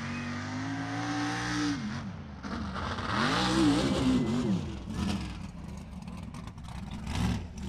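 Mud-bog super truck's engine running hard at high revs, dropping off about two seconds in, then revved up and down again with a rushing hiss before falling back to a lower note, with a short blip near the end.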